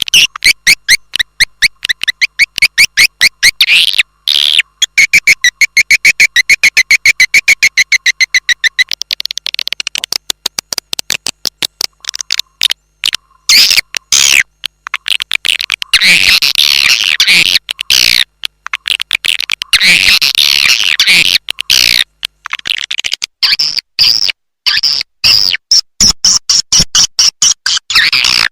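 Swiftlet calls as played from a swiftlet-house lure recording: fast trains of sharp chirps and clicks, growing into dense twittering in the middle and higher chirps near the end.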